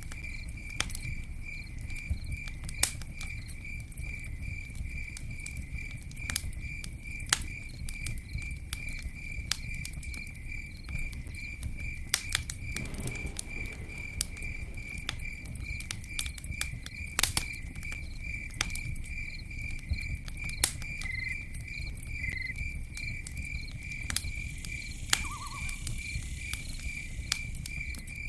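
Campfire crackling, with frequent sharp pops and snaps over a low, steady rush. A cricket chirps at the same time, a high, evenly pulsing trill that never stops.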